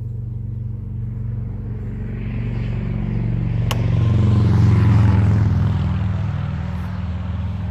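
A steady low mechanical hum, like a motor vehicle engine running. A wider rushing sound swells about halfway through and fades again, like a vehicle passing. A single sharp click comes a little before the middle.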